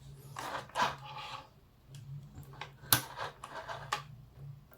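Fabric and thread being handled at a mini sewing machine after stitching: short rustling and scraping sounds, with a sharp click about three seconds in.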